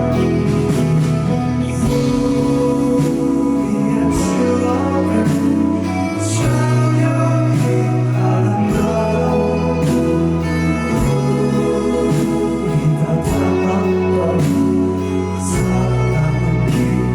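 Live band music: bass guitar holding long low notes under guitars and other instruments, with occasional cymbal crashes and some singing.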